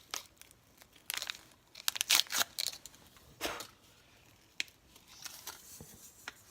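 Crinkling and tearing of packaging in several short, irregular bursts with quiet between.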